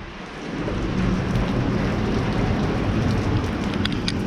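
Steady outdoor noise of drizzle and wind on the microphone, heaviest in the low rumble, with a few faint ticks near the end.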